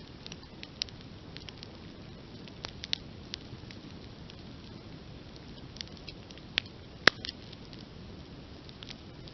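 Open wood campfire crackling: irregular sharp pops and snaps over a soft steady rush of burning, with one loud pop about seven seconds in.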